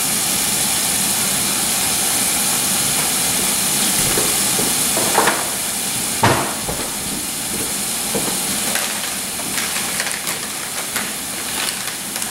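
Steady sizzling hiss of ground beef cooking in a frying pan, with two knocks of a utensil against the pan about five and six seconds in, then lighter clicks near the end.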